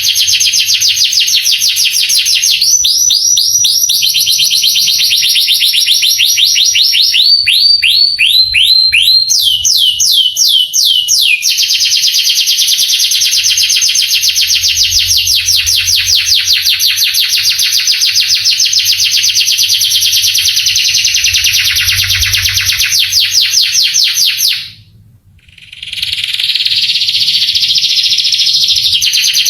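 Male canary singing a long, continuous song of rapid trills and runs of repeated sweeping notes, changing tour every few seconds. It breaks off briefly about 25 seconds in, then starts again.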